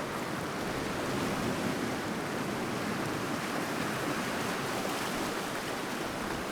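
Sea surf washing onto the shore in a steady rush, swelling slightly about a second in.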